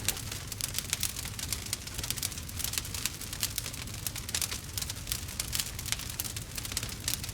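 Wood fire crackling: a dense run of quick, irregular pops and snaps over a steady low rumble.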